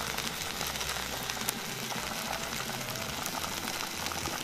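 Small tinder fire of a fluffed cotton pad burning with a steady hiss, and one sharp crackle about a second and a half in.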